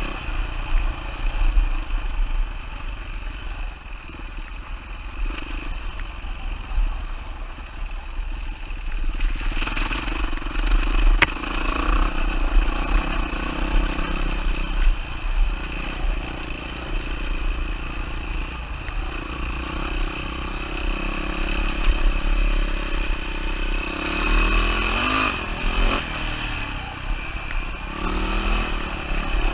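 2007 Yamaha WR450F's single-cylinder four-stroke engine running under way, with the engine note rising and falling about three-quarters of the way through.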